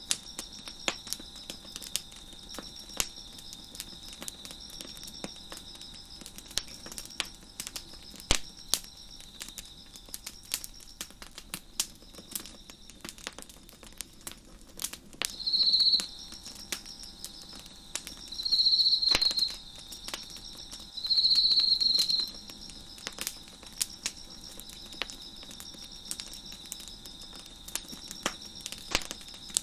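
A wood fire crackling with irregular sharp pops, over a steady high chorus of chirping crickets. About halfway through, a nearer insect trills loudly three times, each trill about a second long; these are the loudest sounds.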